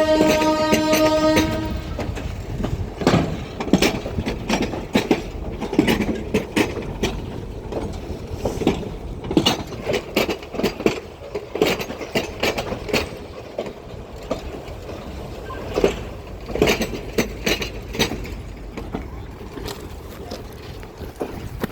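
EMD G12 diesel locomotive's horn sounding and cutting off about a second and a half in, then a slow-moving passenger train: irregular clanks and knocks of wheels over rail joints and couplers over a low rumble.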